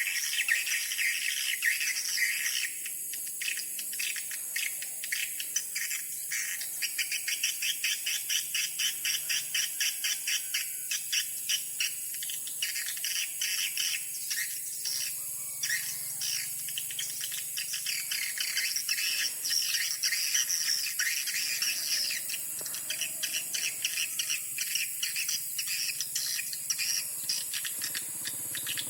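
Swiftlets twittering: a dense, rapid run of high chirping calls that goes on throughout, over a steady high-pitched tone.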